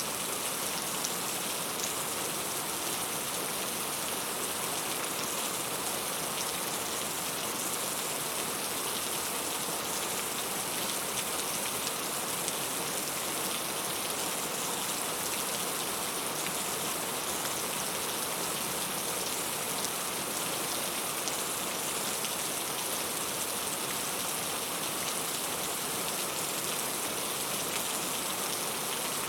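Steady rain falling, a constant even hiss with fine drop patter and no changes.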